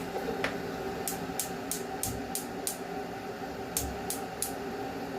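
A steady hum with two runs of quick, crisp ticks, about three a second: six ticks about a second in, then three more near the end.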